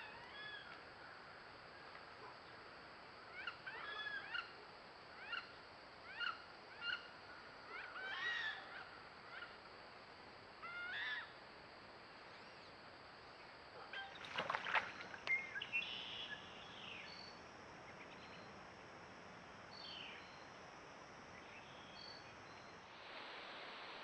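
Wild birds calling over a steady trail-camera hiss: a run of short chirping calls, then a louder, harsher cluster of calls a little past halfway, then a few thin, high notes.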